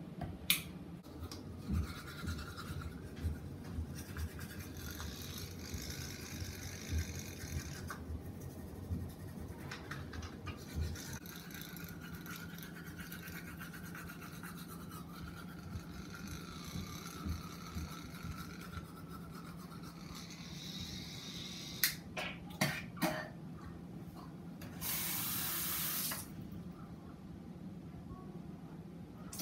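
A child brushing his teeth: steady scratchy scrubbing of a toothbrush in the mouth. Near the end come a few sharp knocks, then a burst of running water lasting about a second and a half as he rinses.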